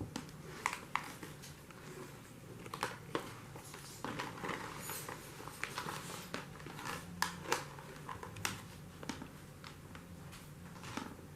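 A cat chewing crunchy treats: irregular sharp crunching clicks, spaced unevenly.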